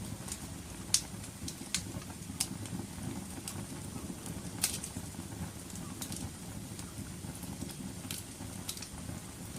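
Wood fire burning in a fireplace: a steady low rumble of flames with sharp crackles and pops at irregular intervals, the loudest about a second in and again near the middle.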